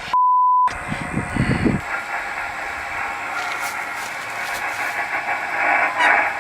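A short pure beep of about half a second, then the steady hiss of a radio transceiver's receiver noise from its speaker, with no station coming back.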